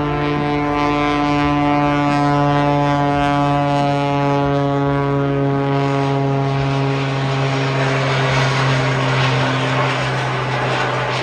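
Piston engine of a propeller-driven biplane flying past: a steady drone whose pitch sinks slowly as it goes by, thinning into a broad rush near the end.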